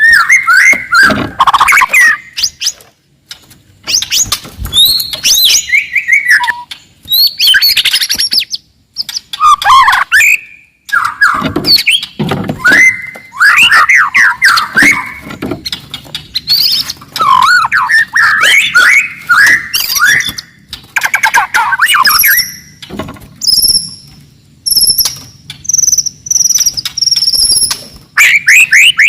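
White-rumped shama singing a loud, aggressive song: fast runs of varied whistled and chattering phrases with short pauses between them, turning to a series of short, high, thin notes near the end.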